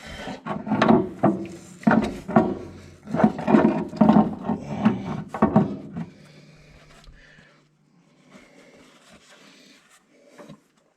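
Hydraulic pump being worked loose and lifted out of a tractor's rear housing: irregular metal scraping, rubbing and knocking, loudest for the first six seconds, then quieter handling.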